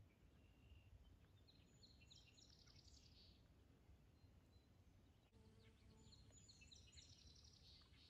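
Near silence with faint birdsong: a small bird's rapid trilling phrase about a second and a half in, and another from about six seconds.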